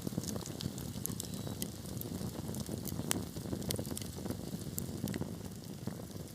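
Wood fire crackling in a fireplace: many sharp pops and crackles at irregular intervals over a steady low rumble of the burning logs.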